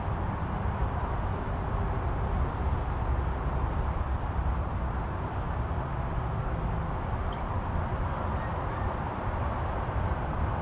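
Steady outdoor rumble and hiss, with a short high bird chirp about seven and a half seconds in.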